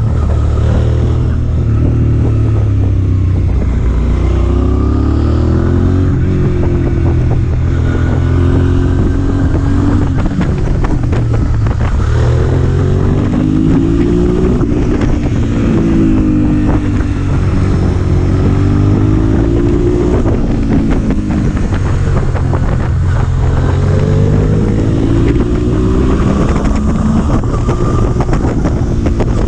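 Motorcycle engine under way, its pitch climbing and dropping repeatedly as it accelerates and changes gear, with wind rushing over the microphone.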